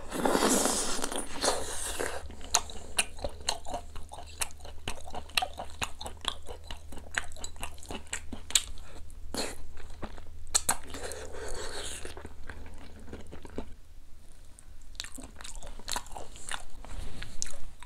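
Close-miked chewing and biting of boiled duck meat: a quick run of wet mouth clicks and smacks, louder in the first couple of seconds.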